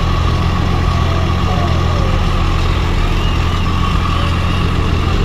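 Diesel pickup truck engine idling steadily, a deep even rumble with no revving.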